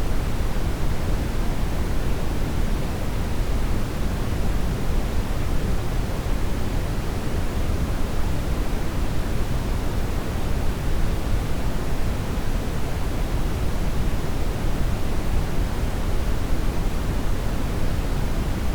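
Steady brown noise: an even, unbroken rushing hiss, deepest and heaviest at the bottom and thinning out toward the top.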